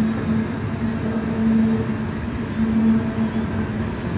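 Freight cars of a long mixed freight train rolling past: a steady rumble of wheels on the rails, with a low hum that swells and fades.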